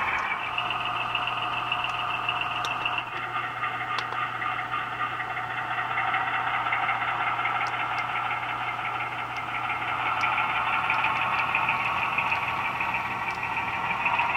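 HO-scale model locomotive's onboard sound unit playing a steady engine-running sound through its small speaker, with a steady low hum underneath and a few faint clicks.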